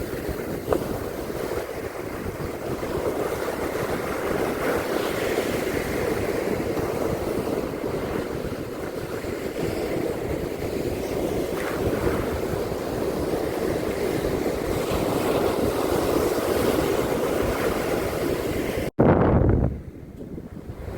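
Sea surf washing steadily on a beach, with wind on the microphone. Near the end the sound cuts out for an instant, then comes a brief loud low rumble, and after that the surf is quieter.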